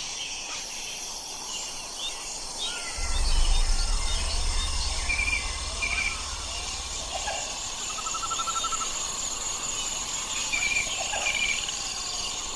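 Forest ambience: a steady chorus of crickets or other insects with many short bird chirps and whistled calls scattered throughout. A low rumble sets in about three seconds in and stops a little past seven seconds, and is the loudest part.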